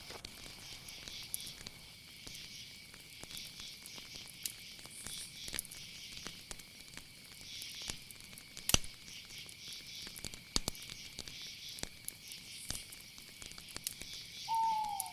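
Night nature ambience: a steady high insect trill with a pulsing higher hiss, over scattered soft clicks and crackles, one sharper click about nine seconds in. A short falling whistled call comes near the end.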